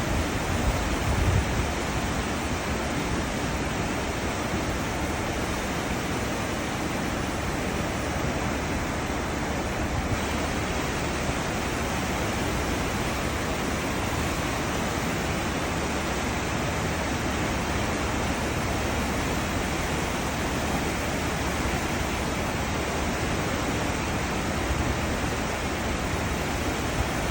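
Cruise ship wake: steady rushing of churned white water along the hull and stern, even and unbroken, with a few low rumbles about a second in and near the end.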